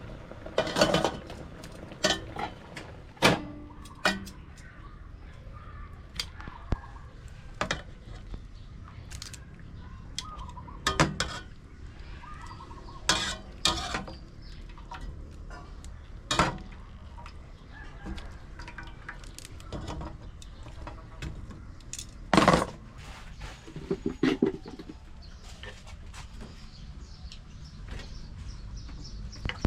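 Pots, dishes and utensils clinking and knocking, a dozen or so separate knocks at irregular intervals, the loudest about two-thirds of the way through.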